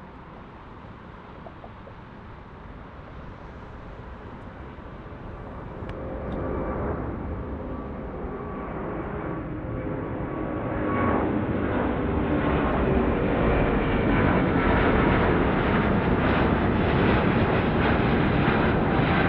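Airbus A350 jet airliner's Rolls-Royce Trent XWB turbofans at takeoff power. The rumble builds louder, stepping up about six seconds in and again about eleven seconds in, then holds loud with steady fan tones over the roar.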